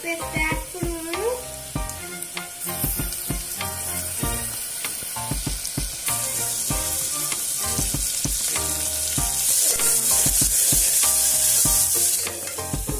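Onions and spices sizzling in hot ghee in an aluminium pressure cooker as ginger-garlic paste is added and stirred in with a steel spoon; the sizzle grows louder past the middle and drops back just before the end. Background music plays underneath.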